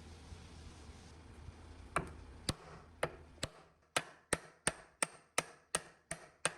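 A hammer striking repeatedly, about a dozen sharp blows with a short ring after each, beginning about two seconds in and quickening to roughly three a second.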